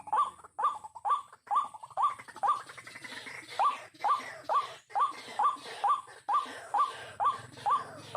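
White-breasted waterhen (ruak-ruak) calling: a monotonous run of short, hooked notes repeated about twice a second, with a brief break about three seconds in.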